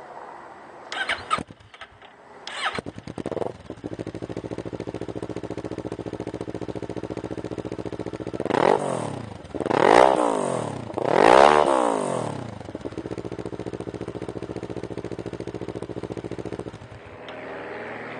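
2009 Kawasaki Ninja 650R's 650cc parallel-twin, breathing through an aftermarket Arrow exhaust, starting after a couple of short bursts. It idles steadily, is revved three times in quick succession around the middle, and is shut off near the end.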